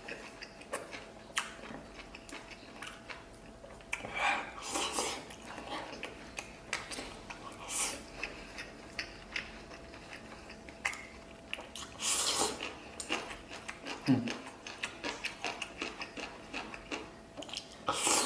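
Eating: chewing mouthfuls of chili stir-fried pork belly and rice, with many small clicks of utensils against a bowl and a few louder noisy bursts.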